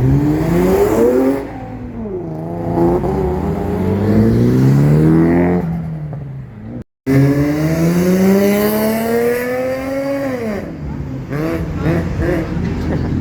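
Car engine accelerating hard, its revs climbing and dropping back at each gear change. The sound cuts out for a moment about seven seconds in, and then another long climb in revs follows and falls away.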